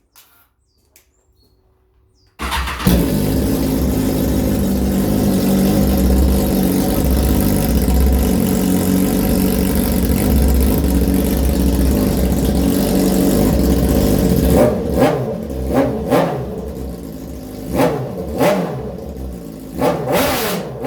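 BMW S1000RR inline-four engine through an Arrow X-Kone exhaust, starting up about two and a half seconds in and idling loud and steady, then revved in about five short throttle blips near the end.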